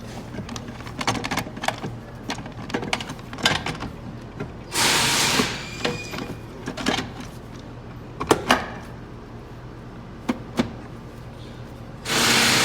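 Metal transmission parts clicking, clunking and scraping as the oil pump is turned back and forth and the clutch assembly lifted to line up its splines. Scattered light knocks, with two longer scraping rushes, one about five seconds in and one near the end, each leaving a faint metallic ring.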